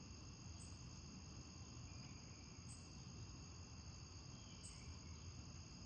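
Faint, steady chorus of crickets chirping from the nature-sounds backdrop, with a brief high note about every two seconds.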